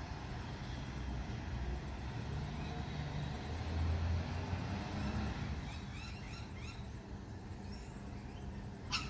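Heavy garbage truck's diesel engine running with a low rumble that swells about four seconds in. Short high chirps repeat in the second half, with a sharp click near the end.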